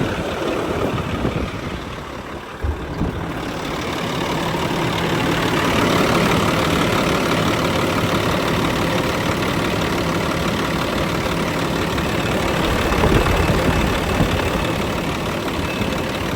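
Caterpillar C11 inline-six diesel in a Kenworth W900 mixer truck idling steadily, heard with the hood open. The engine runs smoothly with no blow-by, a sign of healthy rings.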